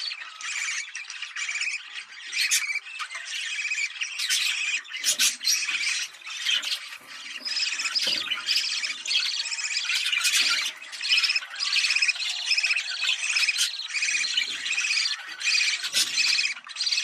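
Budgerigars chattering and warbling in a dense, continuous stream with sharp squawks and clicks mixed in: the mating chatter of budgies.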